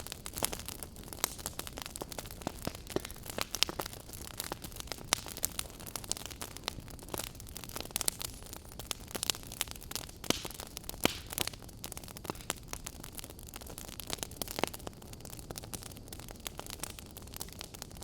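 Wood fire burning in a fireplace, crackling with many irregular sharp pops over a steady low hiss.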